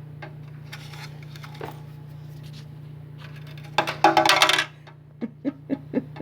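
A budgie's small metal toy bell jangling in a quick burst about four seconds in, then clinking lightly about four times a second near the end, over a steady low hum.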